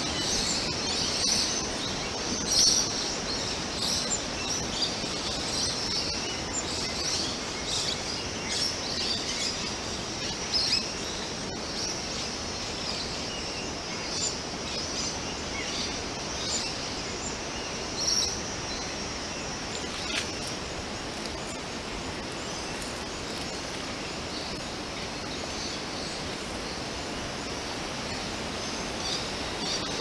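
Small birds chirping in short, high calls over a steady outdoor background hiss. The calls come thick and fast at first, thin out towards the middle and have mostly stopped for the last third.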